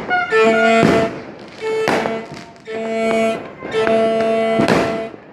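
Fireworks going off, with three sharp bangs, between about five held notes of a single steady pitched tone that sounds repeatedly.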